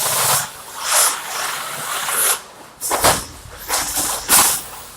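Wallpaper being ripped off the wall by hand: a run of irregular rasping tears, each lasting a fraction of a second, with the loudest near the end.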